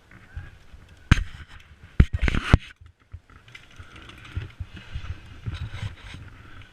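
A sharp knock about a second in, then a quick cluster of four or five loud clacks about two seconds in, followed by softer rustling and scuffing of movement.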